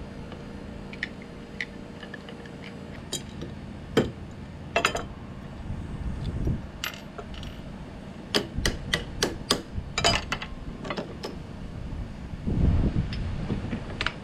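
Metal tools clinking and knocking against a mower's PTO shaft and knuckle as they are taken off, in scattered sharp metallic clicks with a quick run of them about two-thirds of the way through. There are a few duller thumps along the way.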